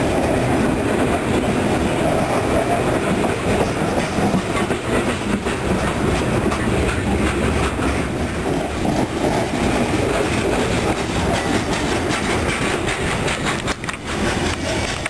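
Loaded coal cars of a freight train rolling past. There is a steady rumble with repeated clacking of the wheels over the rail joints, easing off near the end.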